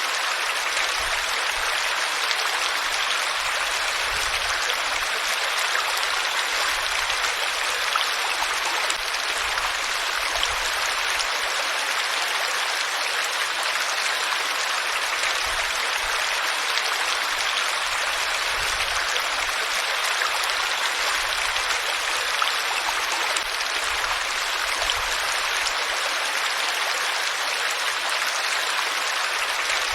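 Water flowing steadily, a continuous even rush like a stream or small cascade.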